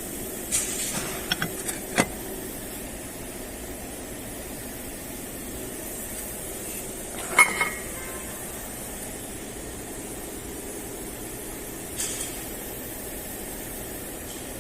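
Metal parts and tools being handled on a workbench: a few sharp clicks and knocks, the loudest about halfway through, over a steady background hum.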